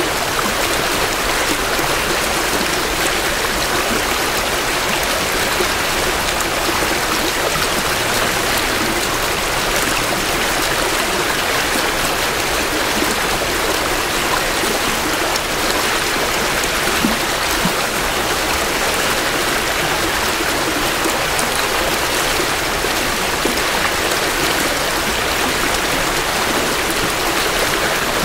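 Creek water flowing steadily over rocks, a constant rushing, babbling noise of a small stream in spring runoff, picked up close to the bank.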